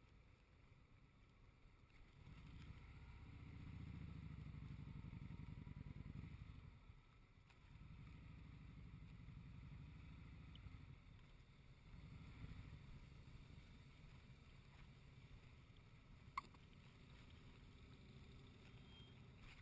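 Faint low rumble of a motorcycle riding along the road, swelling about two seconds in and then running on steadier, with a single sharp click late on.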